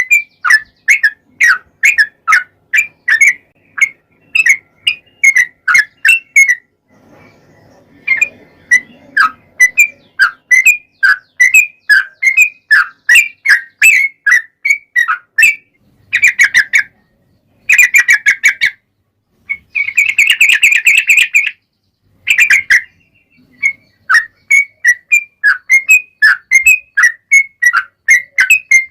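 Yellow-vented bulbul singing: loud, quick chirping notes repeated about three a second, with a few faster trilled runs and one dense burst about two-thirds of the way in, broken by short pauses.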